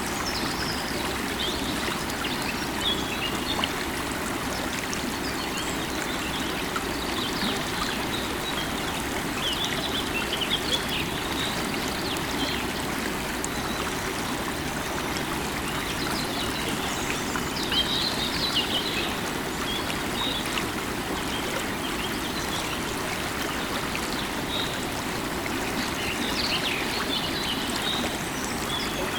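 River water running steadily, with small birds chirping now and then in short, high flurries.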